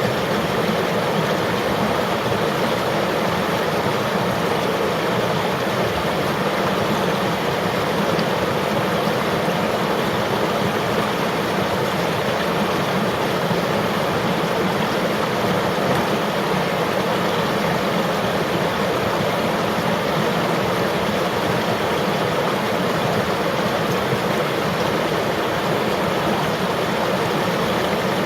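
River water flowing steadily, a constant rushing that does not change.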